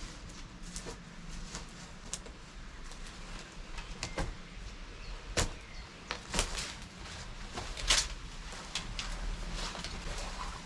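Footsteps crunching irregularly on forest ground litter, with sharp clicks and cracks, the strongest about four, five and a half, six and a half and eight seconds in, over a low steady rumble.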